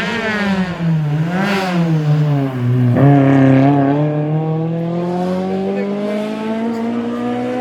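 Rally car engine on a special stage. The revs fall as the driver lifts off, with a short blip about a second and a half in. About three seconds in the revs drop sharply, then the engine pulls hard with a long, steadily rising pitch under acceleration.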